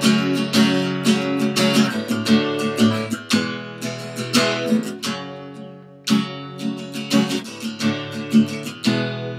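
Acoustic guitar strumming a repeating three-chord progression of F♯ minor, D major and E major, with the F♯ minor held twice as long as the other two.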